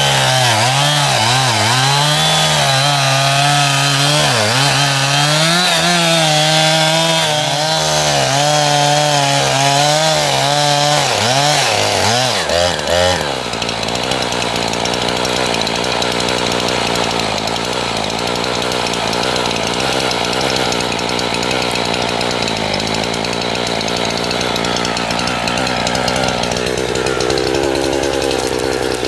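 Chainsaw running under load, cutting wood. For the first half the engine pitch keeps dipping and recovering as the chain bites. About thirteen seconds in it changes to a steadier, more even sound.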